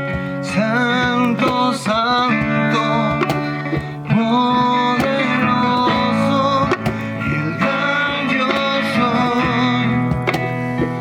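Acoustic guitar strumming a worship song, with voices singing a melody over it.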